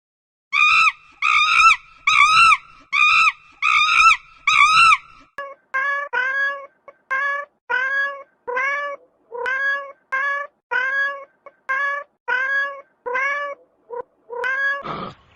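Cat meowing over and over, about two calls a second: first a run of high-pitched, arching mews, then from about five seconds in a longer run of lower meows that rise in pitch.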